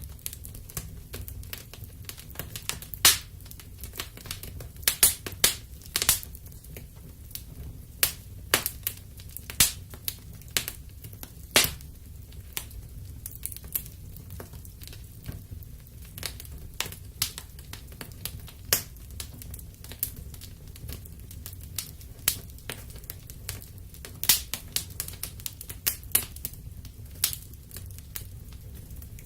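Wood fire in a fireplace crackling: irregular sharp pops and snaps, several a second, some much louder than others, over a low steady rumble of the burning fire.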